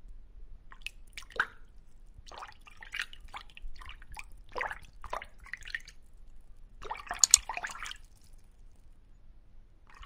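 Water dripping in irregular plops, with a denser cluster of drips about seven seconds in.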